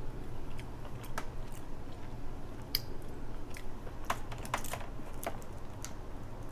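Dungeness crab shell being picked apart and eaten close to the microphone: scattered sharp clicks and crunches with chewing, a little cluster of them about four seconds in.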